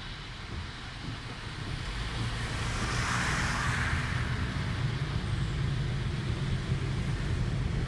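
A car driving, heard from inside the cabin: a steady low road and engine rumble, with a hissing swell about three seconds in.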